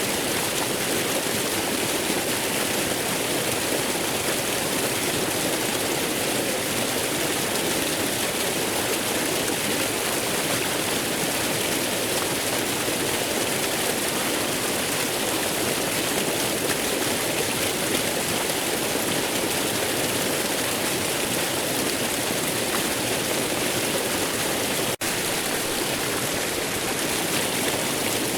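Waterfall rushing steadily, an even wash of falling water, broken by a split-second dropout near the end.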